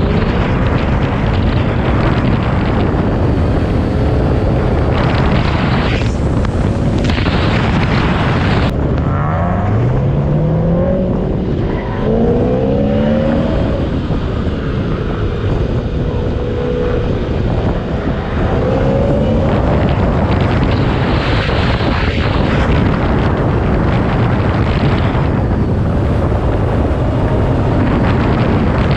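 Supercharged V8 engine of a Toyota Soarer drift car running hard on track. The revs climb in quick rising sweeps several times, over a heavy, steady rush of noise.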